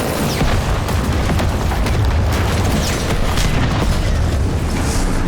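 Explosions and heavy weapons fire: a loud, continuous low rumble with a series of sharp booms about every half second to a second.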